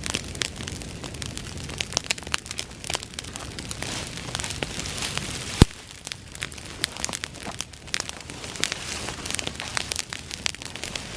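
Bonfire of dry grass burning, crackling with a steady run of sharp snaps and one much louder pop a little past halfway.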